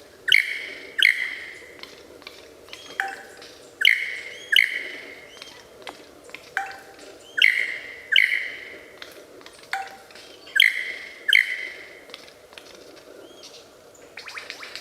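A bird calling loudly in pairs of notes, each note starting with a sharp downward sweep. There are four pairs, about three and a half seconds apart, each sometimes preceded by a short lower note.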